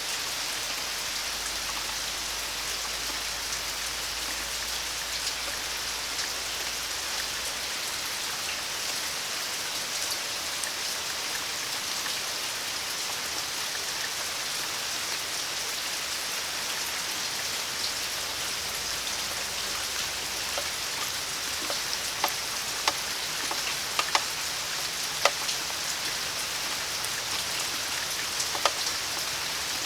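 Steady rain falling, a continuous even hiss. Several sharp ticks of drops stand out in the last several seconds.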